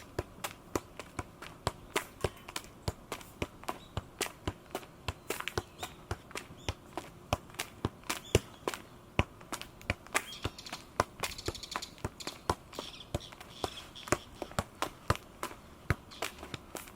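A freestyle football being juggled: a quick run of sharp taps as the ball is struck again and again by foot and leg, about three or four touches a second and uneven in strength.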